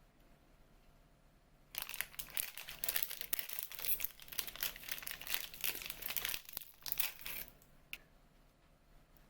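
Plastic packaging crinkling as it is handled, an irregular crackle that starts suddenly a couple of seconds in and stops about two seconds before the end, followed by a single click.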